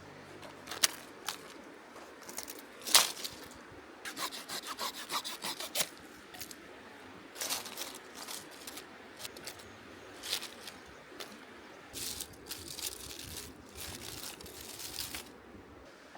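Firewood being worked by hand: irregular groups of scraping, rasping strokes on wood with sharp cracks, the loudest crack about three seconds in.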